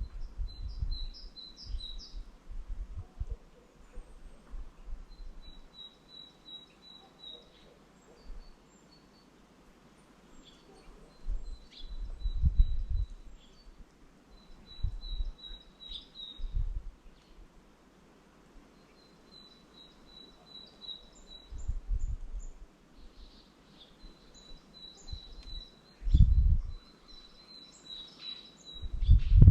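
Small songbirds calling, with short high notes repeated in quick runs, some with higher squeaks above them. Now and then there are low rumbling thumps.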